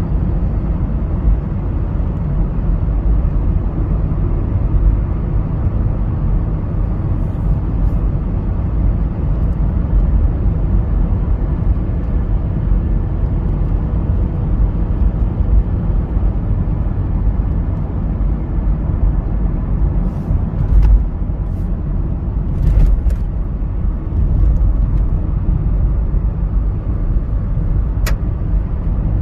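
1998 Mazda MPV's engine idling, a steady low rumble, with a few short clicks in the last third.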